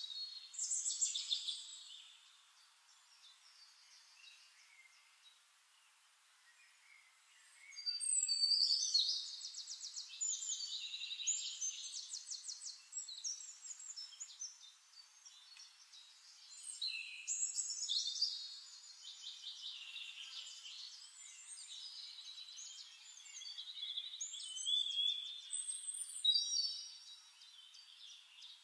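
Outdoor birdsong: high-pitched phrases of fast trills and gliding notes come in bursts every several seconds, with quieter gaps between.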